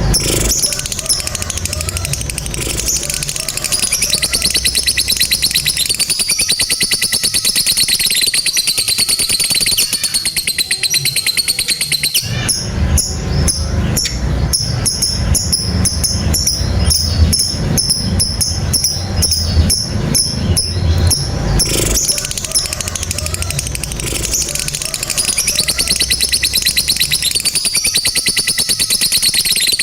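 Lovebird ngekek: a long, continuous, shrill chattering trill of very rapid repeated notes that keeps going without a break.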